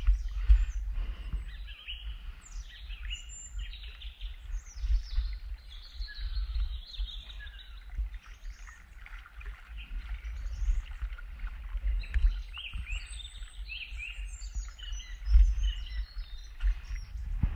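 Several songbirds singing and chirping, with many short, quick notes overlapping, over an uneven low rumble.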